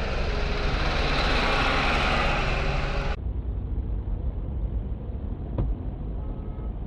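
Car driving, its engine and road noise picked up by a dash cam: a steady rushing hiss over a low rumble, which cuts suddenly about three seconds in to a duller, lower rumble. A single short click sounds a couple of seconds after the cut.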